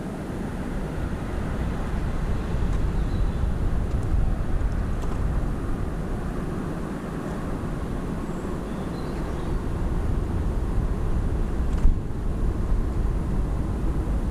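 Steady low outdoor rumble with a few faint high bird chirps in the garden, and a single sharp click about twelve seconds in.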